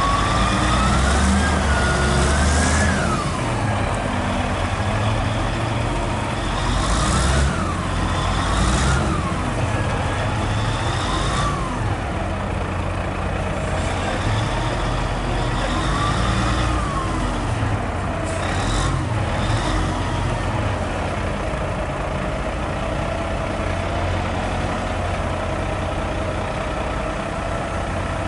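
Hino 500 FM320TI truck's diesel engine, heard from the cab, its note rising and falling several times, with a few short hisses of air. The engine settles to a steadier note in the last third.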